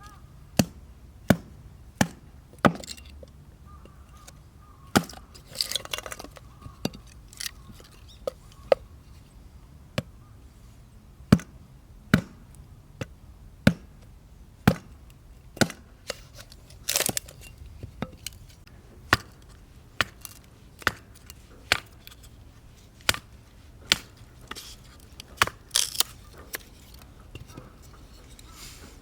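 Firewood being split, a blade or hatchet striking wood with sharp chops about once a second at an uneven pace. Three times a longer crackling sound comes as wood cracks and breaks apart.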